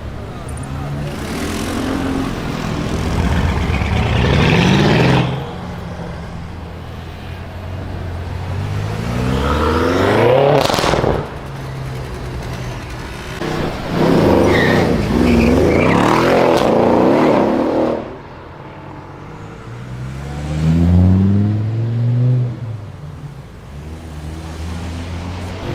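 Mercedes engine through a very loud exhaust, revved hard four times; each rev climbs in pitch, then falls back abruptly to idle.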